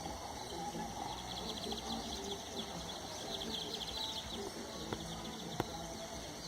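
Birds chirping in fast repeated trills over a steady outdoor background hiss, with two short sharp clicks near the end.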